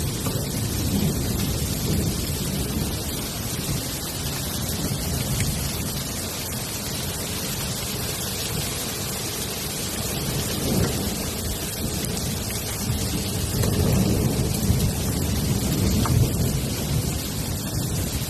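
Heavy storm downpour: a dense, steady hiss of falling water with a low rumble underneath.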